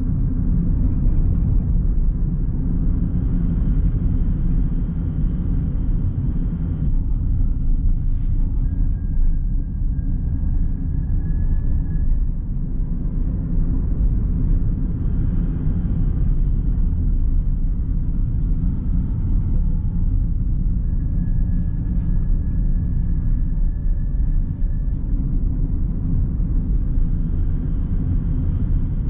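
A car driving downhill, with a steady low rumble of road and engine noise. A faint high whine comes in twice.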